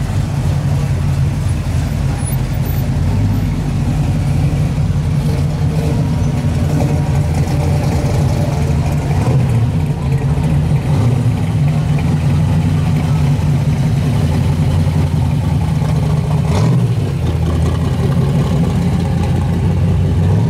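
Classic American muscle cars and hot rods rolling slowly past one after another, their engines running with a steady low exhaust rumble.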